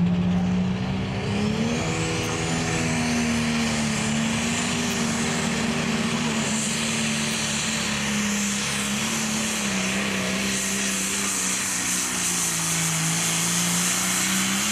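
Turbocharged diesel engine of a John Deere Pro Stock pulling tractor under full load. The revs climb with a rising turbo whistle about a second and a half in, then hold high and steady, sag briefly near the end and climb again.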